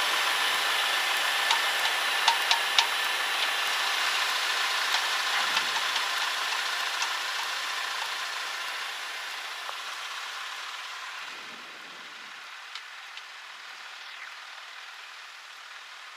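Cessna 152's Lycoming O-235 engine running at low power, heard as a steady hiss with a few faint hum tones, growing gradually quieter over the second half. A few light clicks about two seconds in.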